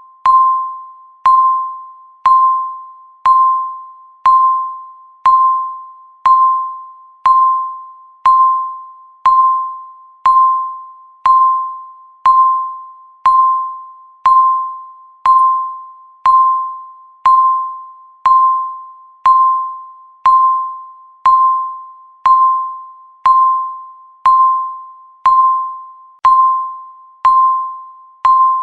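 Countdown timer beeping once a second: a short, single-pitched electronic beep that starts sharply and fades quickly, repeating evenly.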